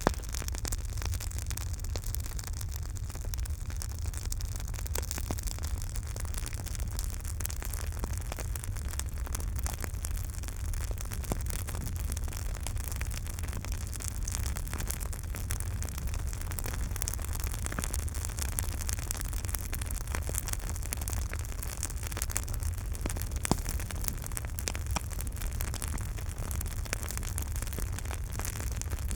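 Campfire burning, with frequent small crackles and pops over a steady low rumble and hiss; a sharper pop right at the start and another near the end.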